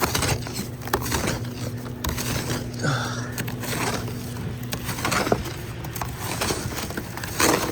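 Ice being scraped and knocked off a truck coated from an ice storm: a run of irregular scrapes, knocks and cracks, over a steady low hum.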